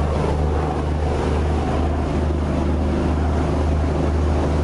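Overnight ferry's engine running with a steady low drone and an even hiss over it. The sound cuts off suddenly near the end.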